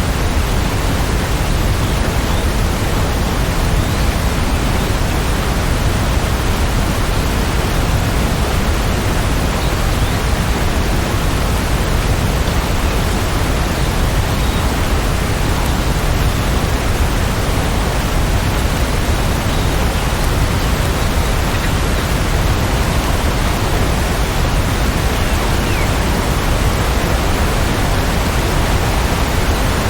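Steady rainfall: an even, unbroken hiss, strongest in the low end, with no single drops, thunder or other events standing out.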